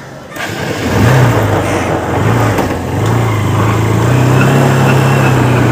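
Honda Unicorn motorcycle's single-cylinder engine running, with two brief lifts in revs in the first few seconds and then a steady idle. This is the engine noise the title puts down to a worn gear bearing.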